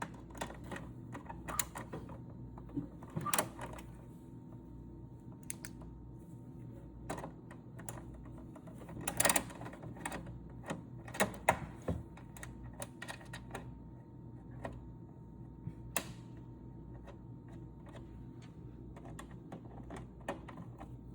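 Scattered light clicks and knocks of a screwdriver and plastic housing parts being handled while a Miele CM6310 coffee machine is taken apart, over a faint steady hum.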